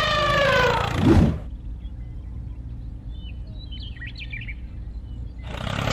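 Faint, short bird chirps over a low steady hum, framed by a louder pitched sound with wavering, gliding tones in the first second and a half, which ends in a low thud, and again near the end.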